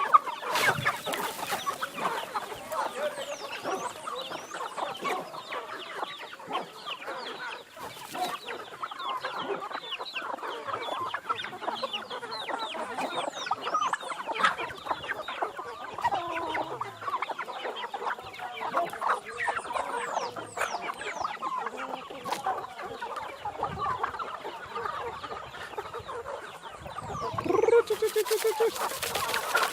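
A flock of free-range chickens clucking, many birds calling over one another without a break, with high thin peeps scattered through.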